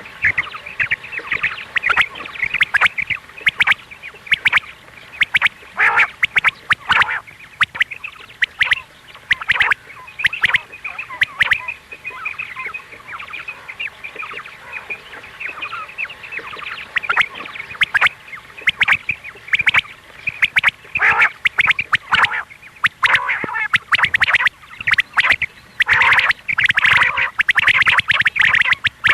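Recorded quail calls: many short, harsh notes in rapid, dense runs that grow thicker near the end. This is a female quail's call, played as a lure in quail hunting.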